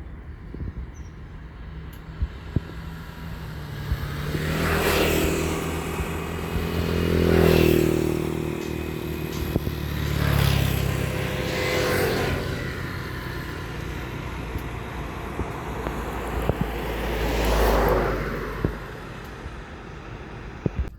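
Road traffic: about five vehicles pass one after another, each engine sound swelling and fading over a second or two, over a steady background rumble.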